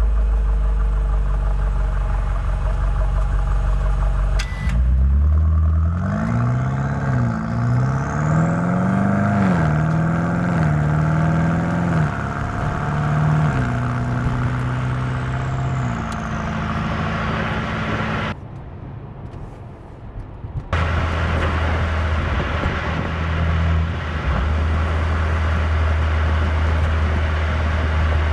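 BMW M8 Competition's twin-turbo V8 running at low revs, then pulling hard from about five seconds in, its pitch climbing and dropping back several times as it shifts up through the gears. It then settles to a steady low drone at cruise, apart from a brief two-second dip in the sound about two-thirds of the way through.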